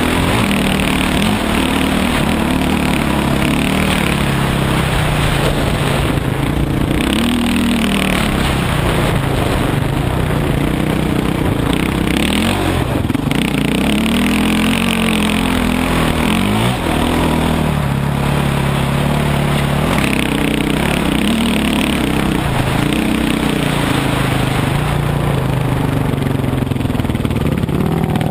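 Dirt bike engine running under way, its pitch rising and falling every few seconds as the throttle opens and closes.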